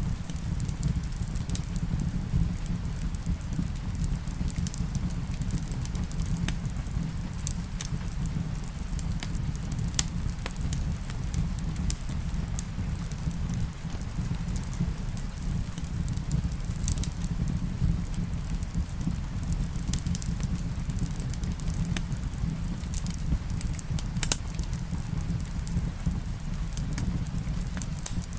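Wood fire in a fireplace burning with a steady low rumble, and scattered sharp crackles and pops at irregular intervals, one louder pop about ten seconds in.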